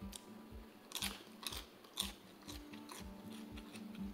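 Close-up crunching and chewing of a crisp lettuce leaf, with a few sharp crunches between one and two seconds in. Background music with a steady low beat, about two pulses a second, runs underneath.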